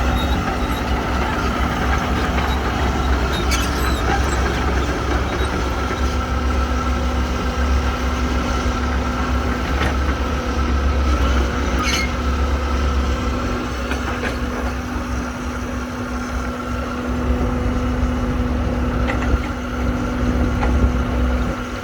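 Heavy diesel engine of a tracked excavator running steadily under work, with a few short knocks.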